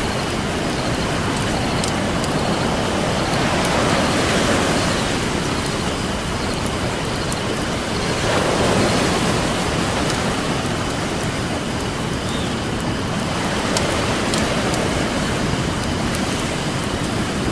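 Ocean surf washing in, swelling twice over a steady rushing hiss, with the small scattered pops of a crackling wood campfire.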